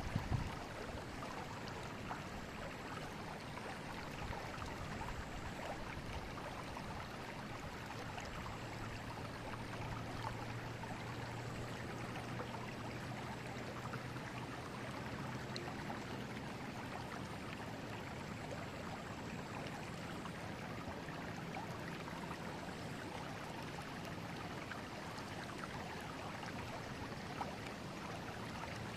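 River water flowing over stones, a steady even rushing. A faint low drone sits under it through the middle, and there is a brief knock right at the start.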